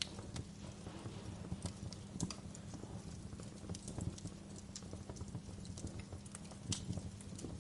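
Wood fire crackling in a fireplace: a low steady rumble of the flames with irregular sharp pops and snaps, a few louder ones standing out.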